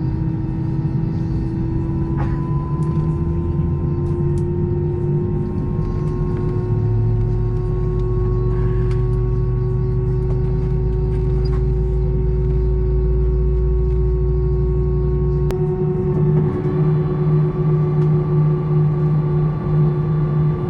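Airbus A319 jet engine running, heard inside the cabin as a steady low rumble and hum that climbs slowly in pitch. The hum takes on a pulsing beat about three quarters of the way through.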